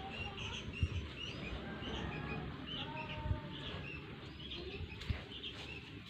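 Small birds chirping: a steady run of short, high chirps, with a few brief low thumps.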